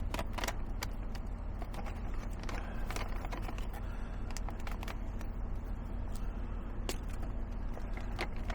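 Foil freeze-dried meal pouch being handled and torn open, with scattered crinkles and clicks, over a steady low hum.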